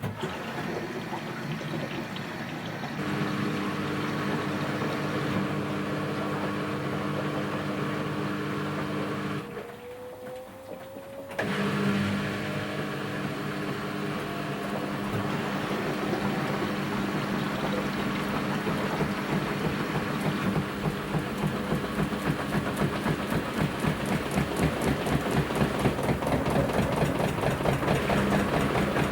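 Washing machine motor turning the drum with a steady hum. It stops briefly about a third of the way in, then starts again with a rising whine as the drum speeds up. A fast rhythmic pulsing builds and grows louder toward the end.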